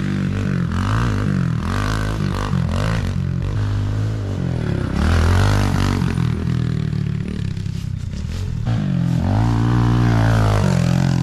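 Small single-cylinder four-stroke 110cc dirt bike engine being ridden hard, its pitch climbing and dropping again and again as the rider accelerates, shifts and backs off. There is one longer rise and fall near the end.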